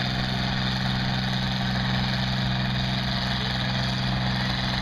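A tractor engine idling steadily, a low, even hum with no revving.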